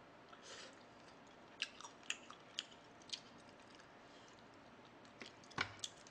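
Close-miked chewing of tender pork from gamjatang, soft and wet, with about half a dozen sharp clicks and taps spread through it. The loudest click comes near the end.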